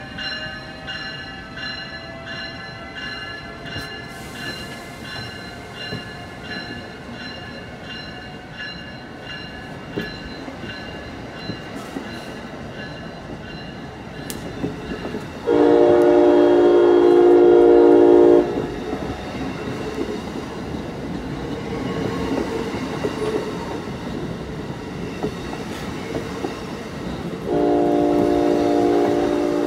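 Amtrak passenger coaches rolling slowly past on the rails, with wheel clatter. A bell rings about twice a second and fades out in the first few seconds. A train horn sounds one loud, steady blast of about three seconds around the middle and another near the end.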